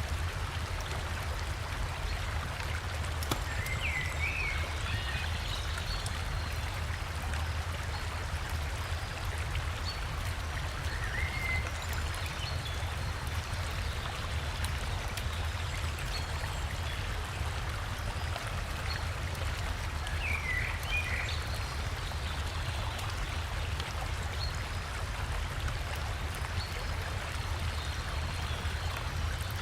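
Steady rush of river water over a small waterfall, with a low rumble underneath. Short bird chirps come now and then, about four times.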